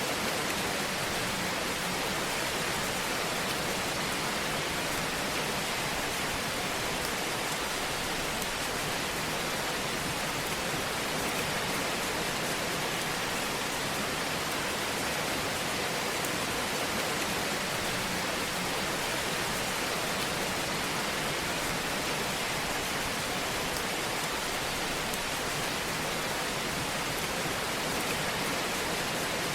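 Wood fire burning in a fireplace: a steady hiss with gentle crackling.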